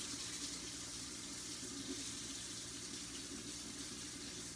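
Water tap running steadily, with an even rushing hiss, as water is run to fill a cup with warm water.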